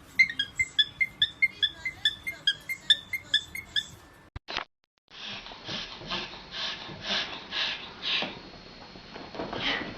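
A bird giving a rapid run of short, high squeaky chirps, about four or five a second. About four seconds in these stop, and after a short gap there is a series of breathy puffs, about two a second.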